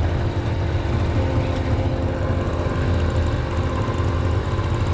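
A steady, low engine drone running at idle without change.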